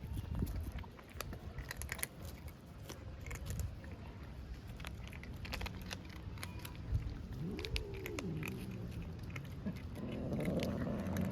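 Cats play-fighting: scattered light scuffs and clicks, one meow rising and falling about eight seconds in, then a louder, rough cat call near the end.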